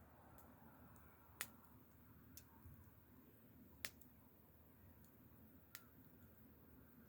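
Burning wood in a campfire crackling faintly, with a few sharp pops spaced a second or two apart, the loudest about a second and a half in and near four seconds in.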